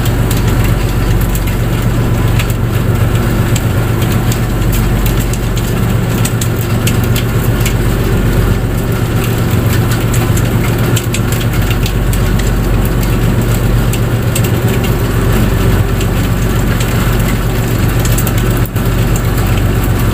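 A fishing boat's engine running at a steady speed, a constant low hum over a steady rushing hiss.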